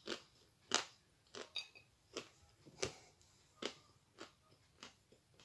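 Close-up chewing of a chunk of Astana Ideal edible clay, crunching about every two-thirds of a second. The crunches grow softer in the last couple of seconds.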